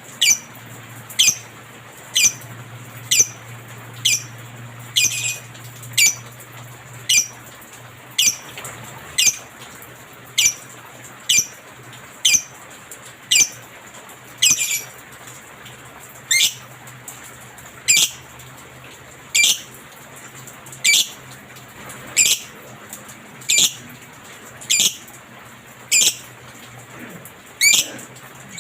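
Lovebird giving short, shrill squawking calls about once a second, each dropping quickly in pitch, in a steady run.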